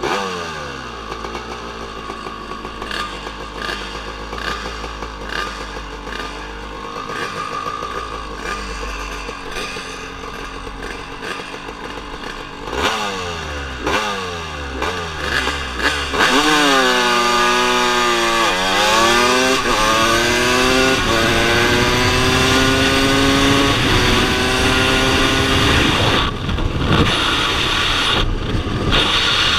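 Drag-racing motorcycle engines revving in short blips, then, about halfway through, a motorcycle launches hard and accelerates flat out, its engine pitch climbing and dropping back at each of several upshifts.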